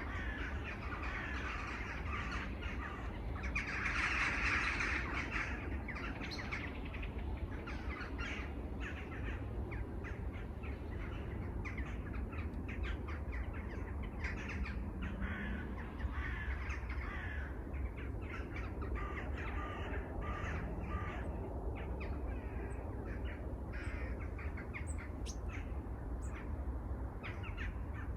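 A dense chorus of many birds calling at once in short repeated calls, with crows cawing among them, over a low steady rumble. The calling swells louder about four seconds in.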